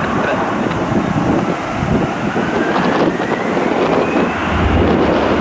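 Strong wind buffeting the microphone with a steady low rumble. Underneath is a faint jet engine whine that rises slowly in pitch through the middle.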